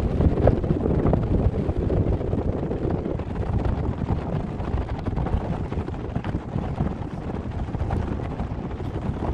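Wind buffeting the microphone: a steady, dense, low rumble that stops abruptly near the end.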